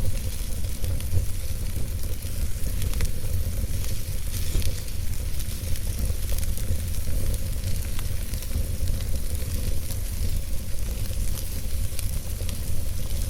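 Campfire burning with a steady hiss and scattered crackles and pops, over a steady low rumble.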